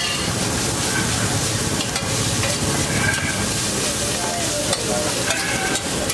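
Egg-stuffed buns sizzling steadily in oil on a large flat iron griddle, with a few sharp ticks of a metal spatula against the griddle as they are pressed and turned.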